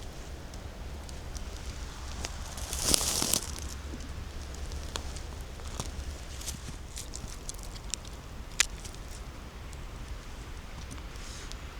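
Footsteps on the forest floor, dry leaves and twigs crackling underfoot, with a louder rustle about three seconds in and a sharp twig snap a little past the middle.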